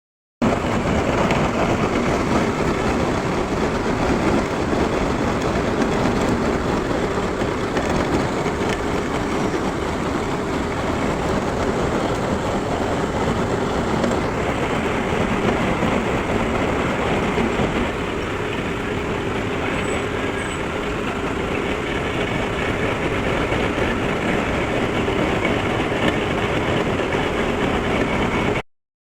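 Metal lathe running steadily while turning a workpiece.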